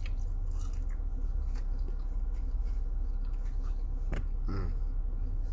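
A steady low rumble with a few faint small clicks, and a brief short vocal sound about four seconds in.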